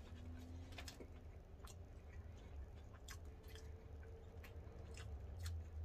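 A person chewing a mouthful of burger, faint and close, with small wet mouth clicks scattered through, over a low steady hum.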